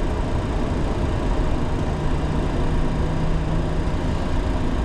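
Boeing 737 cockpit during takeoff: a steady, loud rush of jet engine and airflow noise over a low rumble.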